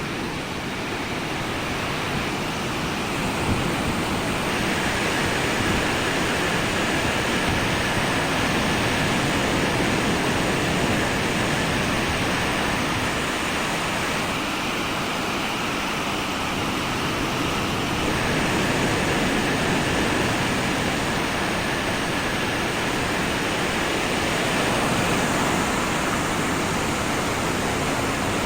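Drying fans of a touchless automatic car wash blowing air over the car: a steady rushing noise, with a faint high whine that comes and goes a few times.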